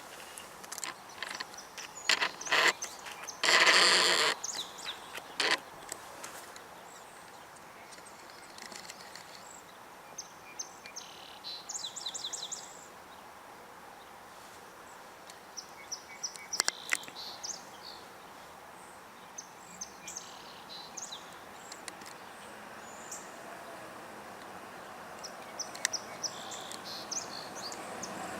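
Small birds chirping and calling in short scattered bursts over steady outdoor background noise, with a fast high trill about twelve seconds in. There are a few sharp clicks and a brief loud burst of noise about four seconds in. Near the end a vehicle approaches and grows steadily louder.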